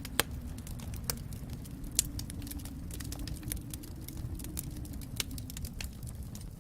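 Wood fire crackling in a fireplace: irregular snaps and pops, two sharper ones just after the start and about two seconds in, over a low steady rumble.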